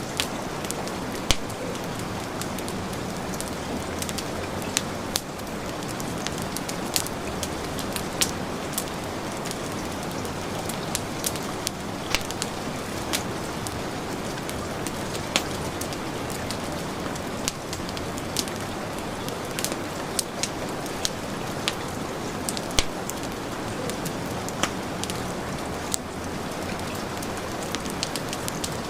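Heavy, steady rain mixed with a wood fire crackling, with sharp pops scattered irregularly throughout.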